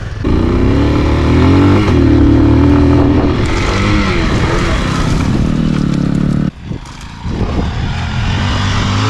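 Dirt bike engine revving, its pitch rising and falling as the throttle opens and closes. About six and a half seconds in the sound drops off sharply. It picks up again about a second later.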